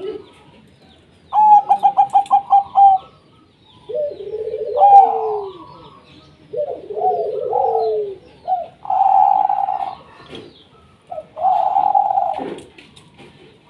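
Zebra doves cooing: a quick stuttering run of about eight short notes, then lower gliding coos and longer held notes, with two calls overlapping at times.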